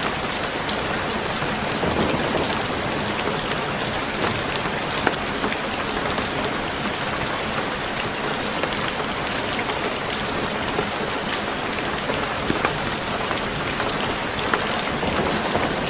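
Steady rain on a roof, an even hiss, with scattered sharp clicks and pops of a crackling fire over it.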